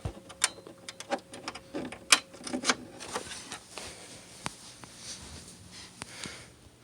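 Irregular plastic clicks, taps and rubbing from a USB cable being plugged into the port on the back of an LCD TV, busiest in the first three seconds and thinning out after that.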